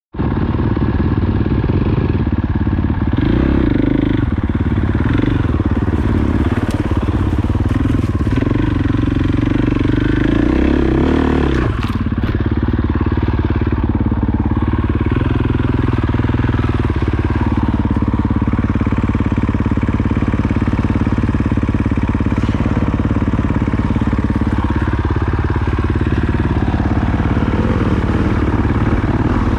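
Dirt bike engine running continuously on a trail ride, its pitch rising and falling as the throttle is opened and eased off.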